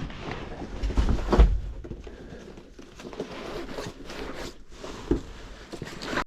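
Clothing and a backpack being handled while gearing up: rustling, a zipper being pulled, a dull thump about a second and a half in, and a short click near the end.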